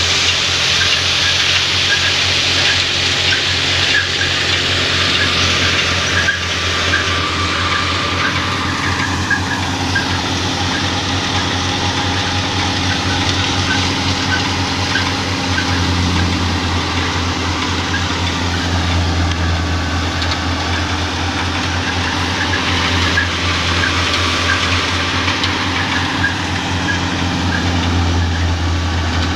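Tractor-powered thresher running steadily: a low engine drone under a loud, even rushing noise from the machine, with a faint regular clicking.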